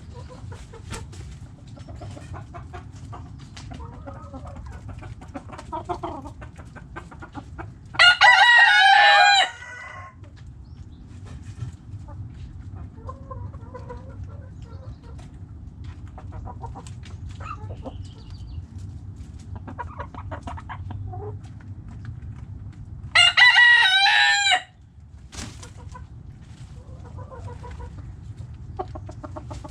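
Backyard hens clucking softly and intermittently. A rooster crows loudly twice, about eight seconds in and again some fifteen seconds later; each crow is short, about a second and a half.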